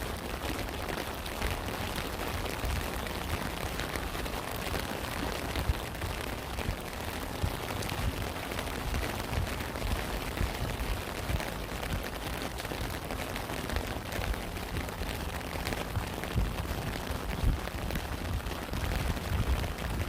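Steady rain with a constant hiss, many separate drops ticking and heavier low thuds throughout.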